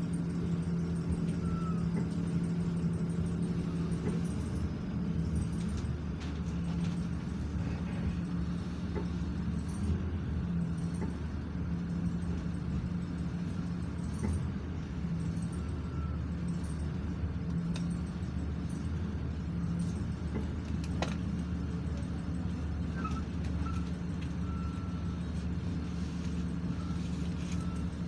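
Steady engine hum and running rumble heard inside a commuter train carriage, with a few light clicks and knocks.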